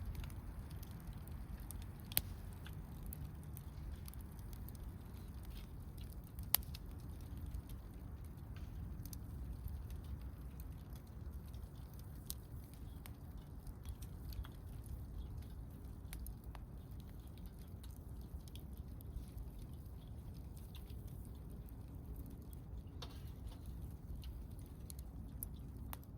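Wood fire crackling: scattered sharp pops and snaps from the burning wood, two of them louder, about 2 and 6.5 seconds in, over a steady low rumble.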